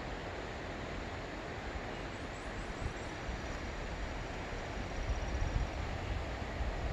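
Steady wind hiss, with wind buffeting the microphone in low rumbling gusts that grow stronger in the last couple of seconds.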